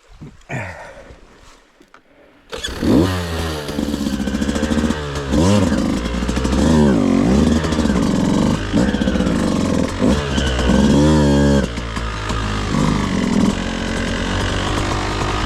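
Beta 200RR two-stroke dirt bike engine firing up about two and a half seconds in, then revved hard up and down again and again, settling to a steadier run near the end.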